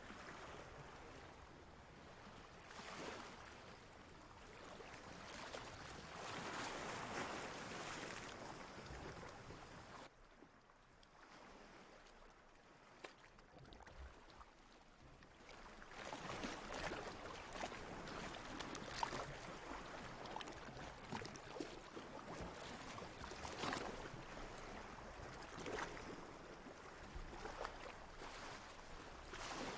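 Sea waves washing in and drawing back. The water noise swells and fades, drops to a quieter lull about ten seconds in, and the later swells carry a fine crackling fizz.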